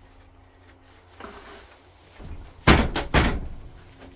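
Two loud, sudden thumps about half a second apart in the second half, with a smaller knock before them: a lawn tractor's old battery that has frozen to the bottom of its tray being knocked and worked loose.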